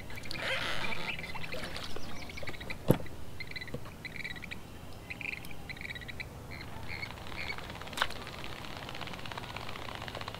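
A bird chirping over and over in short high calls, with a steady outdoor background and two sharp clicks, about three and eight seconds in.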